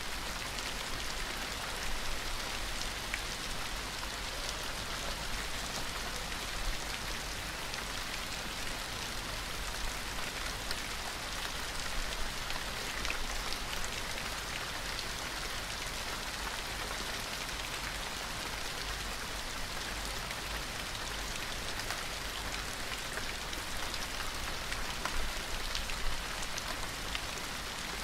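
Steady rain falling, with a soft even hiss and scattered sharp drop taps.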